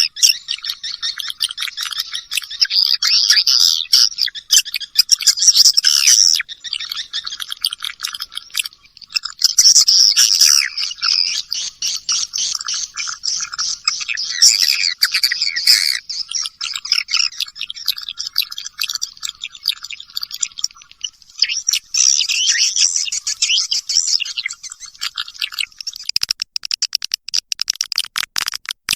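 Recorded swiftlet call sound: many swiftlets twittering and chirping in a dense, rapid, high-pitched chatter. It is a lure call, played to draw swiftlets in to roost and nest.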